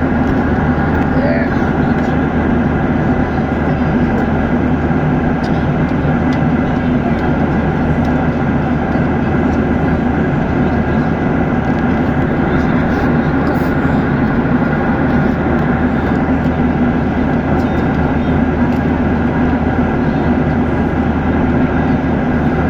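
Steady, loud drone of engine and airflow noise inside an airliner's passenger cabin during flight, with a constant low hum.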